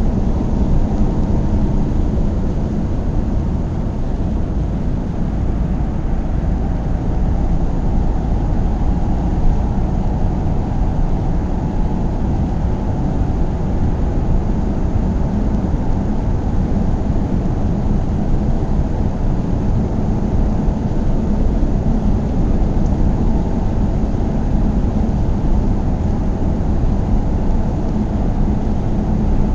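A car driving along at a steady pace: a steady low rumble of road and engine noise that holds even throughout.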